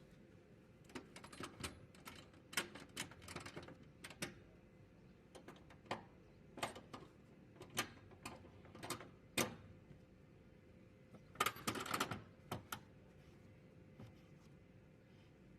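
Irregular sharp clicks and knocks of hard objects, some single and some in quick clusters, over a faint steady hum.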